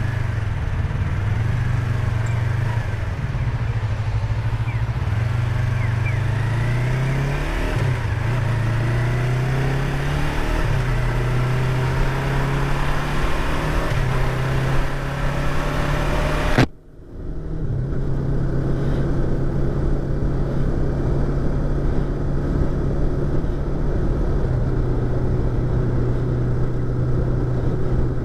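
Yamaha YZF-R25's 250 cc parallel-twin engine running under way, heard from inside the rider's helmet over wind hiss, its pitch rising and shifting between about 4 and 10 seconds in. About two-thirds of the way through, the sound cuts out for a moment; when it returns the engine is steadier and the wind hiss is much lower.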